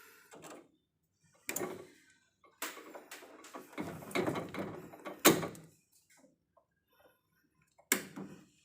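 Irregular knocks and clatter of things being handled, with a sharp click about five seconds in and another near the end.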